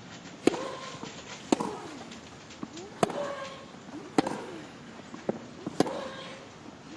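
Tennis ball struck back and forth by rackets in a baseline rally: about five sharp hits, roughly a second or a second and a half apart.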